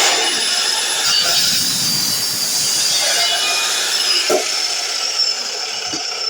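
DeWalt miter saw running under load as it cuts, a steady loud screech with a high whine, and a short knock a little after four seconds in.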